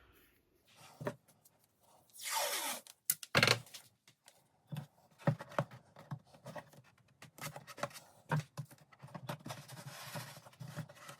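The side-skin sheet of a model boat hull being fed into place and clamped: a rubbing scrape about two seconds in, a knock, then a run of small scattered clicks and taps as the part is worked and clamps go on.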